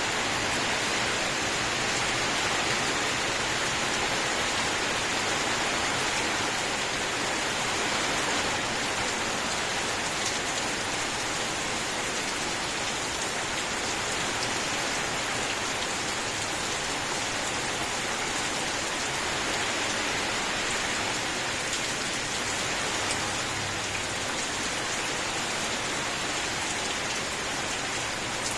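Steady, continuous rain falling on a surface, an even hiss with no thunder or breaks.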